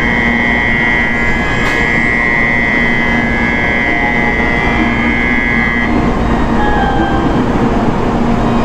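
Shinkansen platform door-closing buzzer sounding as one steady high buzz, cutting off about six seconds in, over the steady hum and noise of a train standing at the platform.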